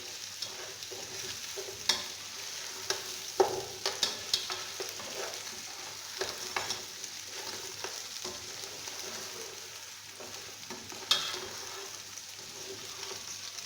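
Chicken pieces frying with browned onions and garlic in a pot, a steady sizzle, while a spoon stirs them and knocks against the pot now and then, most sharply a few seconds in and near the end.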